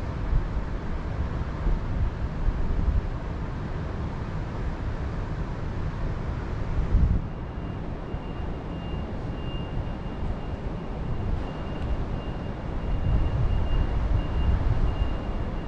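Wind in a mountain forest, gusting on the microphone with a low rumble. About halfway through, a faint, thin, high steady note comes in and pulses on over the wind.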